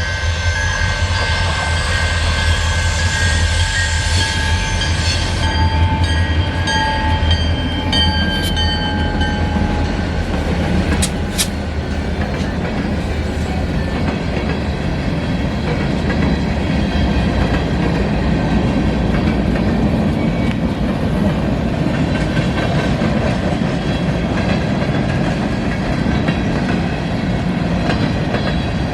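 Freight train passing: diesel locomotive rumble with high steady tones that fade out over the first ten seconds, then the steady rolling noise of freight cars on the rails with clickety-clack and a couple of brief high squeals.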